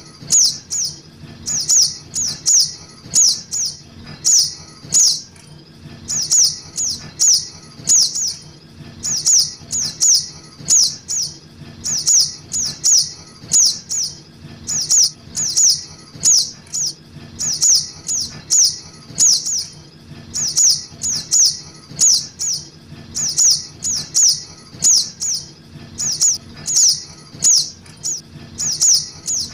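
Juvenile sogok ontong (sunbird) begging calls played as a trapping lure: groups of three or four quick, high, down-slurred chirps, repeating evenly about every two seconds like a loop, over a faint low hum.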